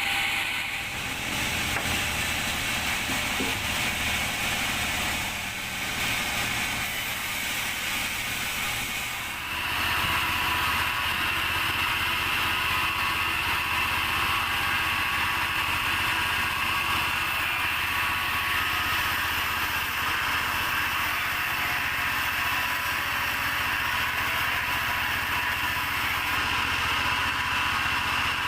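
Sawmill machinery running with a steady engine-like drone. About nine seconds in it gets louder, and a steady high whine sets in and holds.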